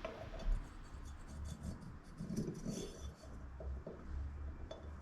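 Light handling noises of small parts on a workbench: scattered clicks, taps and rubbing, over a low background hum.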